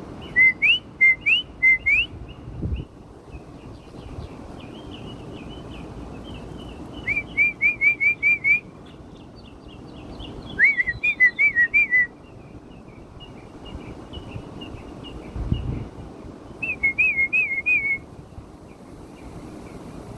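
Whistled call-and-response between a man and songbirds copying him. There are four loud bursts of quick, rising whistled notes, with fainter bird whistles answering in between.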